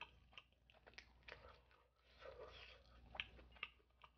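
Faint mouth sounds of chewing a mouthful of spicy fried shrimp: soft, irregular wet clicks.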